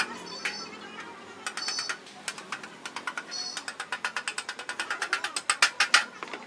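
Mechanical clicking in quick runs, like a ratchet being worked, speeding to about seven clicks a second and loudest near the end, with a couple of short high squeaks.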